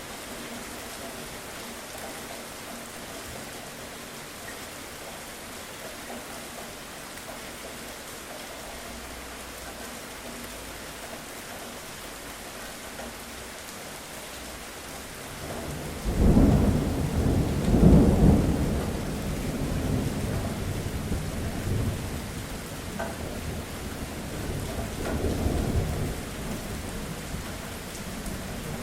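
Steady rain falling, with a loud roll of thunder about halfway through. The thunder breaks in suddenly, swells again a couple of seconds later and once more near the end, then dies back under the rain.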